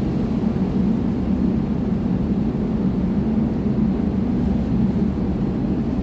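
Isuzu Erga city bus's four-cylinder diesel engine idling steadily with an even low hum.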